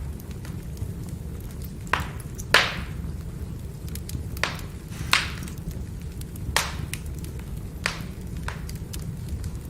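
Firewood burning, crackling, with about seven sharp pops over a steady low rumble of the fire. The loudest pop comes about two and a half seconds in.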